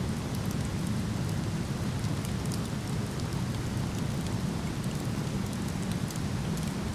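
The steady rushing of a waterfall, deep and unbroken, with a wood campfire crackling faintly over it in small scattered snaps.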